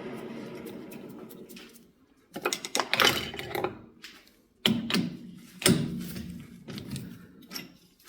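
Metal lathe running with a steady hum that dies away over the first two seconds as it stops, followed by a few sharp metallic clanks and rattles of hand work at the machine.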